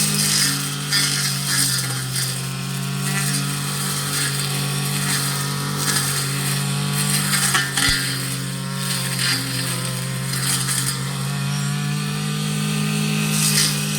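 Petrol brush cutter (grass trimmer) engine running steadily, with uneven surges of hiss as it cuts through grass and weeds.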